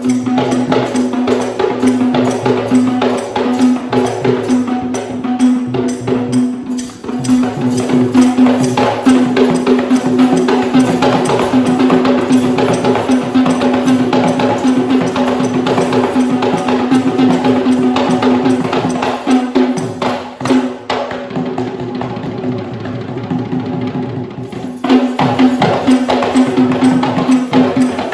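Traditional Sri Lankan drum ensemble playing for the Kandyan dance: fast, dense drum strokes over a steady held pitch. The playing thins out about twenty seconds in and comes back at full strength near the end.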